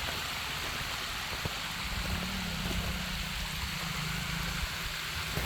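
Water rushing over a small waterfall, with a side-by-side's engine idling low underneath.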